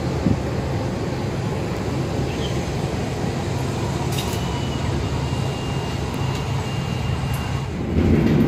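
Steady low rumble of a local passenger train, with a couple of faint clicks and a thin, faint high whine in the middle seconds.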